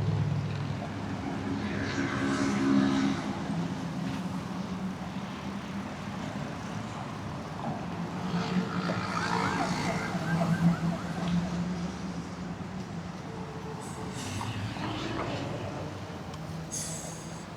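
City street traffic: vehicle engines running and passing, with a siren wailing in rising and falling tones twice, about two seconds in and again around nine seconds in.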